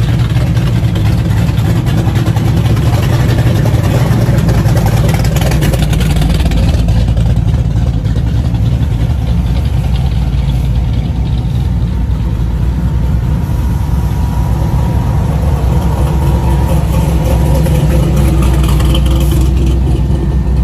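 Classic American muscle car engine running with a deep, steady low rumble, at times revving and settling.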